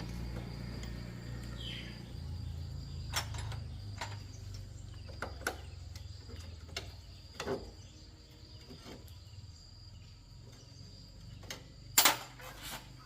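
Hand tools knocking and clinking against motorbike parts during disassembly: scattered single sharp knocks over a low steady hum, with the loudest, a quick cluster of knocks, near the end.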